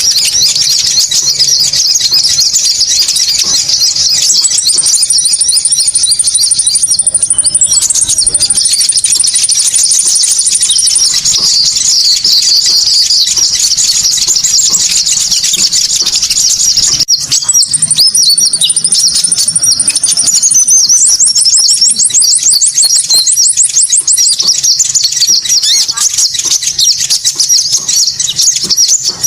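Recorded calls of konin birds played as a bird lure: loud, dense, shrill chattering and twittering with long, high, buzzing trills laid over it, going on without a break except for a brief dip about halfway through.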